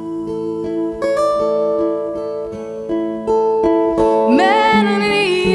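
Music: slow fingerpicked acoustic guitar carrying the song's melody. About four seconds in, a woman's wordless voice slides up and joins it in a held line.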